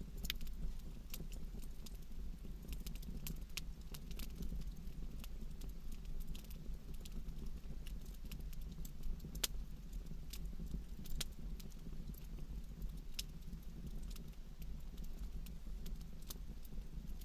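Wood campfire burning, crackling with irregular sharp pops over a steady low rumble.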